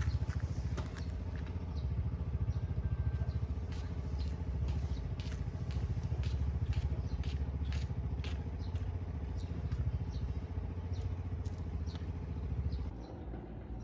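A nearby engine running steadily with a fast low pulse, with scattered clicks and clatter over it. The engine sound drops away sharply near the end.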